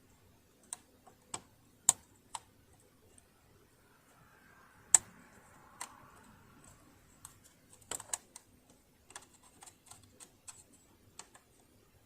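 Irregular sharp clicks and taps of small metal parts and tools being handled on a sewing machine during disassembly. The two loudest clicks come about two and five seconds in, and a quicker run of lighter clicks follows.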